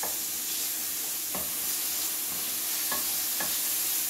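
Thin-cut seasoned chicken breast sizzling steadily in hot olive oil in a frying pan. A few brief clicks of a utensil against the pan come through the sizzle.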